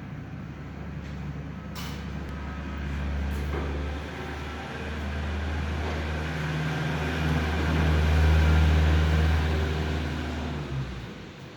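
A 400 engine running with a steady low drone, growing louder toward its peak about two thirds of the way in, then dropping away near the end.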